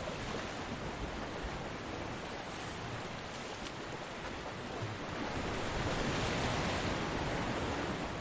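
Ocean surf washing on a beach: a continuous hiss of breaking waves that swells as a wave breaks about five seconds in, then eases off.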